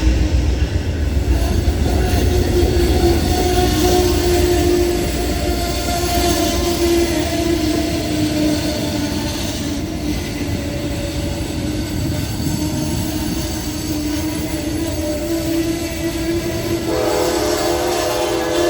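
Train running by, a loud steady rumble with a held tone over it, and a horn chord sounding near the end.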